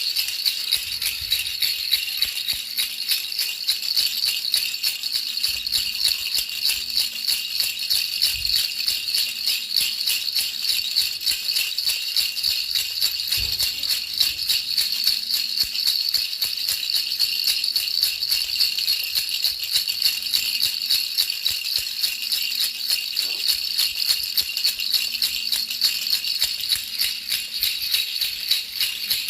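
Baby rattle shaken continuously in a steady rhythm of quick jingling, rattling strokes, used as soothing noise for a baby's sleep.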